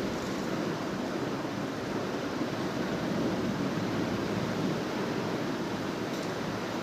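Steady rushing noise with no distinct events, holding at an even level throughout.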